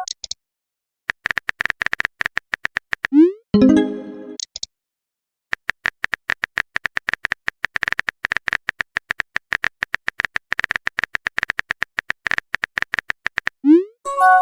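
Rapid keyboard-typing clicks, in two long runs. About three and a half seconds in, and again near the end, a short rising swoop and a brief chime of a message-notification sound follow.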